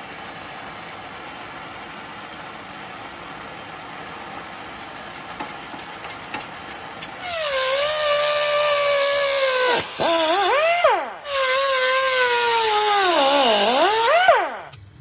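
A power tool running: a loud whine with a hiss over it, starting about halfway through, its pitch sagging and climbing back twice as it loads and frees up, then stopping just before the end. Before it, only steady background noise with faint ticking.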